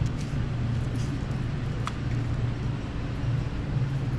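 Steady low hum with a faint even hiss over it and a few faint clicks.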